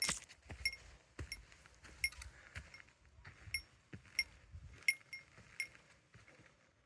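A small metal bell ringing in short clinks at irregular intervals, about ten times, each strike ringing briefly at the same few bright pitches, over a faint low rumble.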